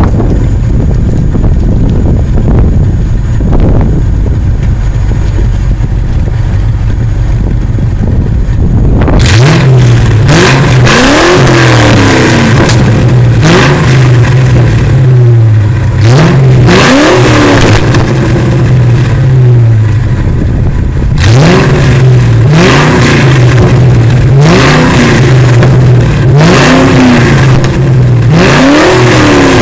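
Ford Mustang GT's 5.0 (302) V8 running through a Pypes exhaust with an off-road X-pipe, with wind buffeting the microphone. About nine seconds in it settles into a steady idle and is blipped about ten times, each quick rev rising and dropping straight back to idle.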